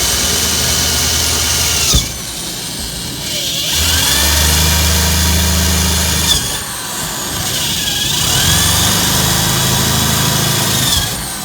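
Electric drill drilling holes through a car's steel frame rail and floor pan. It runs in three bursts, winding down and spinning back up between them, and stops near the end.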